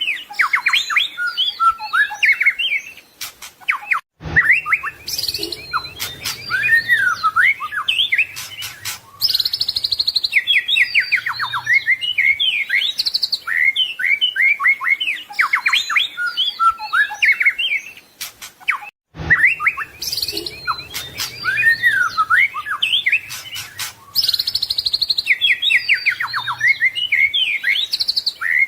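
White-rumped shama (murai batu) singing a fast, varied song of whistles, sweeping notes and rapid trills. The song is a short looped recording that breaks off abruptly about 4 seconds in and again about 19 seconds in, then repeats the same passage.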